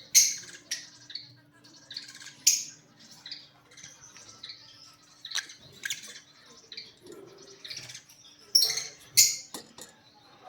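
Caged lovebirds chirping and squawking: many short shrill calls, with the loudest sharp squawks a moment in, at about two and a half seconds, and twice close together near the end.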